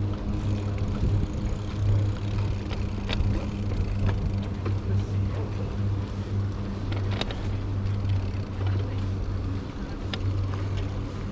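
A steady low engine-like hum with a strong deep tone throughout, and a few sharp clicks over it.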